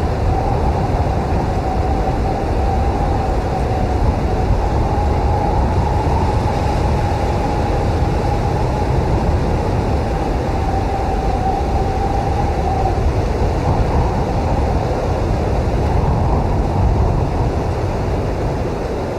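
Strong blizzard wind blowing steadily with a deep rumble, over which a thin, wavering whistle of wind sounds until about two-thirds of the way through.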